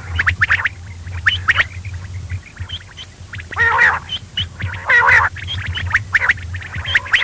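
Quail calling: a quick run of short, high chirps, broken by two longer, harsher calls about three and a half and five seconds in, over a low steady hum.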